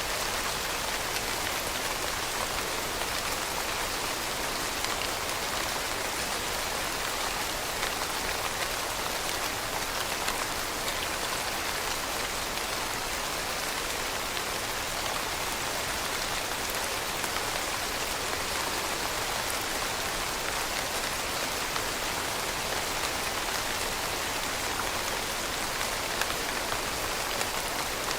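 Steady rainfall, a dense even hiss of drops landing on a surface, with fine scattered patter of individual drops.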